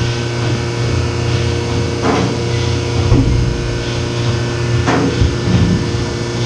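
Steady mechanical hum of milking-parlour equipment, with a few sharp knocks or clatters about two and five seconds in.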